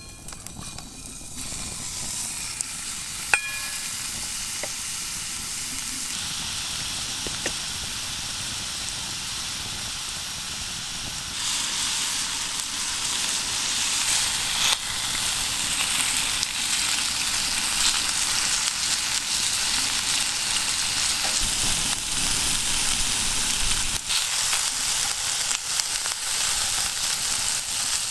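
Food sizzling as it fries in a pan, a steady hiss that grows louder about eleven seconds in, with a few light clicks near the start.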